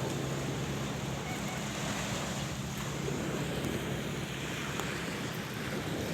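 Sea waves washing steadily on the shore, a continuous surf noise. A low engine hum sits under it and fades out about halfway through.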